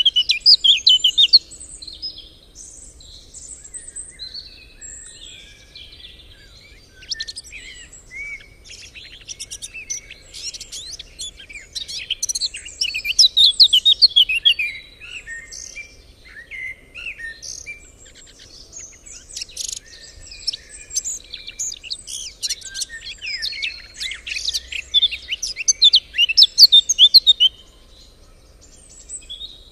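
Several small birds chirping and singing at once, a dense chorus of short rapid notes, louder in bursts near the start, around the middle and near the end.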